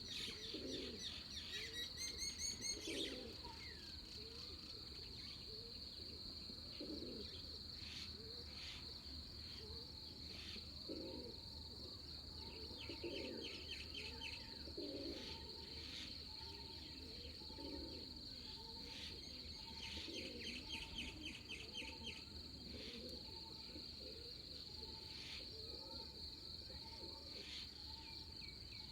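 Pre-dawn nature chorus: a steady high-pitched insect drone with birds chirping and trilling over it, a soft note repeating about once a second, and low cooing calls.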